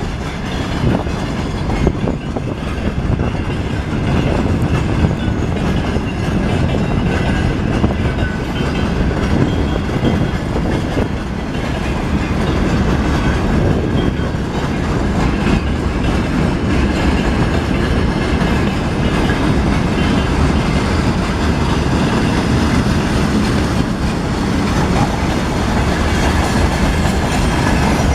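Loaded freight train wagons rolling past, with a steady rumble and their wheels clicking over the rail joints.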